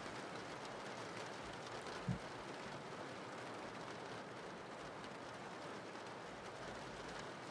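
Quiet, steady rain ambience, an even hiss of rainfall, with one brief soft low thump about two seconds in.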